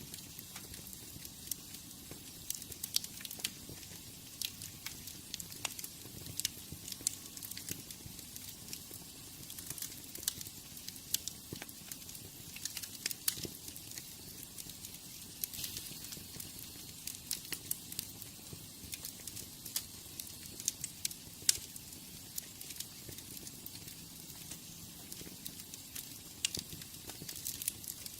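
Wood fire burning in a fireplace, with a steady hiss and frequent sharp, irregular crackles and pops.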